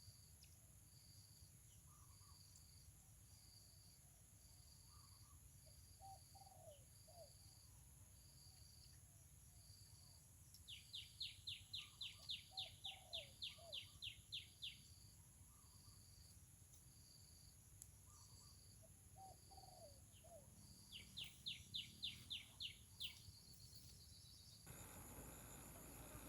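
Faint outdoor sounds: a high insect chirp pulsing steadily a little more than once a second, with two runs of quick repeated bird notes at about four a second. The first run lasts about four seconds, beginning about eleven seconds in; a shorter run comes near the end.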